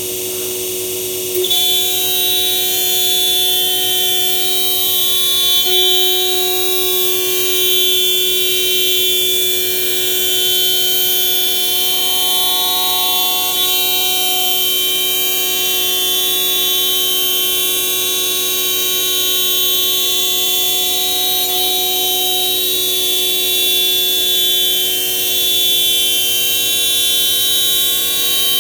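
MAKA 5-axis CNC machining centre running, a loud, steady whine of several tones over a hiss. It gets louder about a second and a half in.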